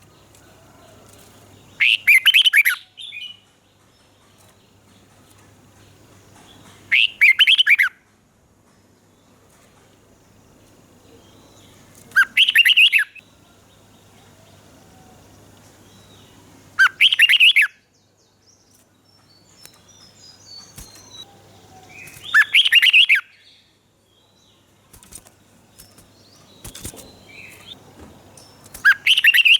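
Red-whiskered bulbul singing: six short, loud song phrases about five seconds apart, with fainter chirps between them.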